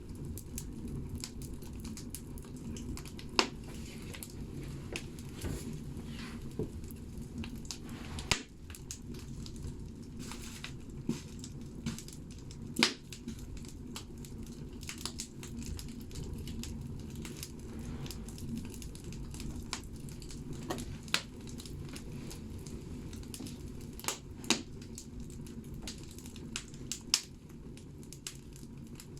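Firewood burning in a bathhouse (banya) stove: a steady low rumble of the fire with irregular crackles and pops of the logs, a few sharper snaps standing out.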